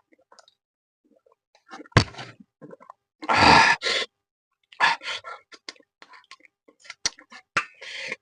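Scattered handling noises: sharp clicks and knocks, with a short breathy rush of noise about three seconds in and another near the end.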